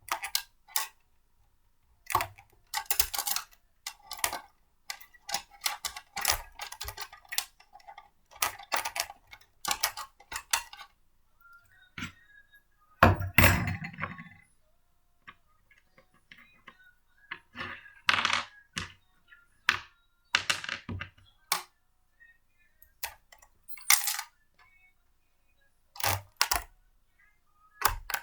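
Blender parts being handled and fitted together: irregular clicks, clinks and clatters of hard plastic, glass and metal pieces, with one heavier thunk about halfway through.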